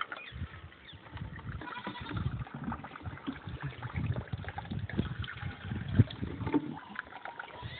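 Small homemade DC-motor water pump sputtering and gurgling irregularly as it sucks air: its water supply has run out.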